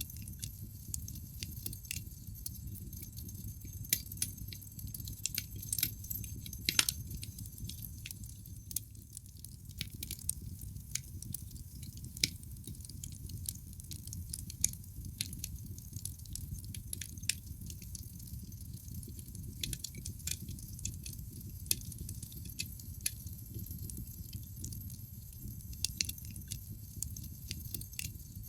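Wood logs burning in a fireplace, crackling with a steady stream of sharp pops over a low rush of flame, with a few louder pops about four and seven seconds in.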